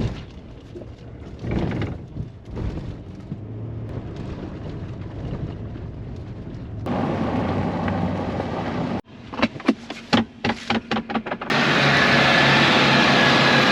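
Vehicle engine and cab noise rumbling, cut off abruptly about nine seconds in. A quick run of sharp knocks follows, then a louder steady engine and fan drone with a thin high whine, as heard inside a running tractor cab.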